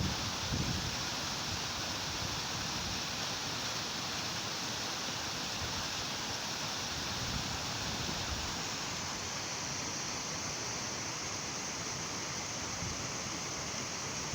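Strong wind with rain, a steady hiss, with gusts buffeting the microphone in low rumbles now and then.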